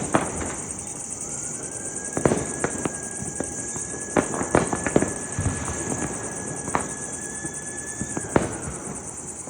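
Firecrackers going off at irregular intervals, about nine sharp bangs, over the steady high chirring of crickets. A faint steady high tone runs through most of it.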